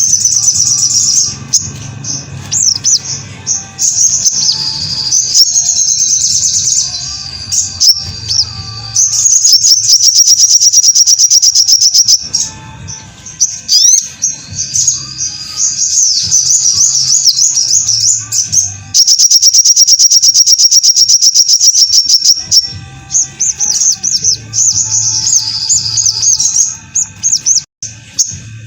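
Sogon (ruby-cheeked sunbird) singing: long runs of rapid, high-pitched chattering trills, with short breaks between phrases.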